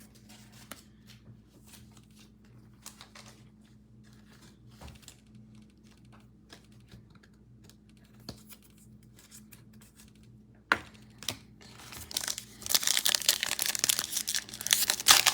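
Foil wrapper of a trading card pack being torn open and crinkled, loud and dense over the last few seconds, after a stretch of faint clicks from cards being handled.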